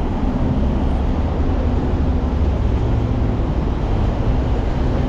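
Steady low rumble of passing vehicle traffic, with a faint engine hum.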